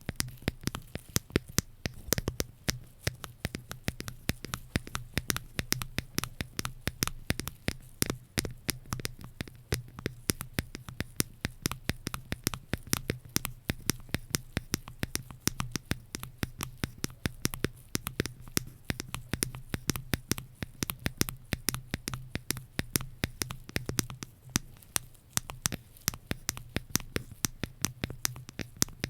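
Close-miked ASMR trigger sounds: rapid, irregular crisp taps and scratches, several a second, over a steady low hum.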